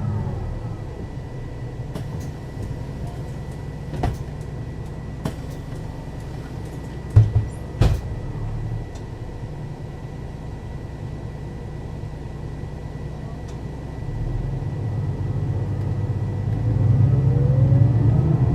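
Mercedes-Benz O 530 Citaro city bus idling at a standstill, its diesel running steadily under a thin constant high tone, with a few sharp knocks about four seconds in and again around seven to eight seconds. Near the end the engine note rises and grows louder as the bus pulls away through its ZF automatic gearbox.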